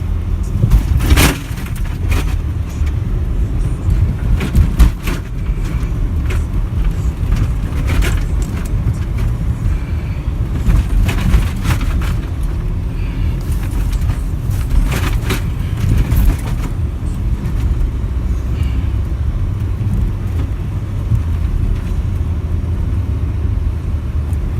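An SUV ploughing through deep fresh snow: a steady low rumble of engine and tyres, with scattered knocks and rattles from the vehicle as it bumps along.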